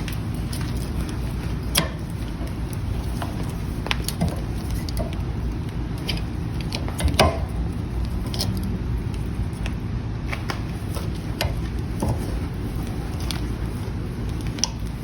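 Scattered light metal clicks and knocks as a heated bar of square iron stock is twisted in a blacksmith's vise, over a steady low rumble. The loudest knock comes about seven seconds in.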